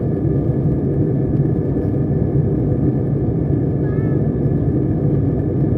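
Steady low drone of an airliner cabin, the engines and rushing air sounding evenly throughout.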